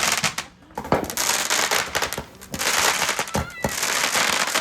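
Consumer fireworks going off: long stretches of crackling hiss broken by sharp bangs about a second in and twice in quick succession around three and a half seconds, with a few short whistling tones.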